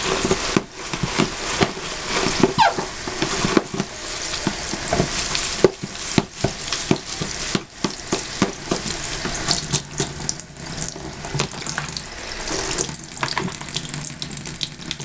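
Water running from a tap while a lathered bath pouf is squeezed and rinsed under it, with wet squelching and the crackle of soap lather.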